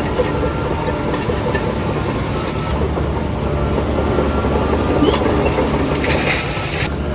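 Crawler bulldozer's diesel engine running under load with its steel tracks clattering, and a short hiss about six seconds in.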